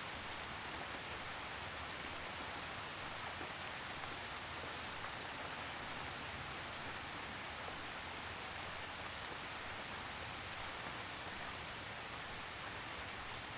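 Steady gentle rain, a soft even hiss of drizzle with faint scattered drop ticks.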